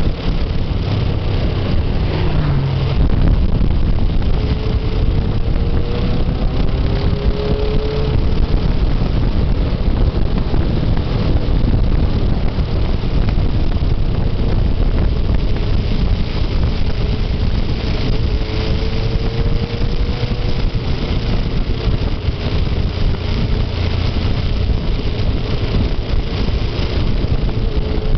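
Motorcycle running while being ridden, with heavy wind noise on the microphone; the engine's pitch rises and falls slightly a couple of times.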